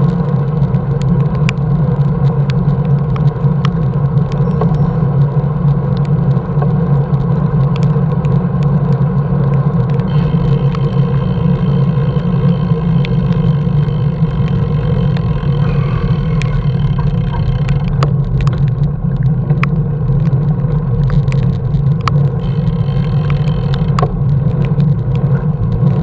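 Road vehicle travelling at a steady speed: an even engine and road drone with scattered sharp ticks and clicks.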